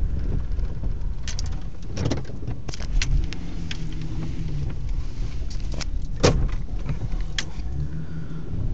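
Truck running at low speed with a steady low rumble, with scattered clicks and rattles inside the cab and one sharp knock about six seconds in.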